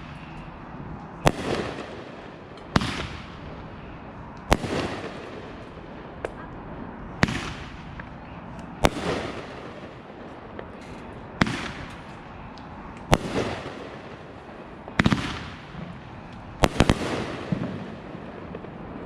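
Consumer aerial fireworks going off in a steady series, about nine sharp bangs one every one and a half to two seconds, each with a short fading tail.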